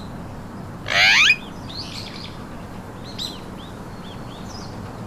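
Pet parakeet calls: one loud, harsh screech with a rising pitch about a second in, then a series of fainter short chirps.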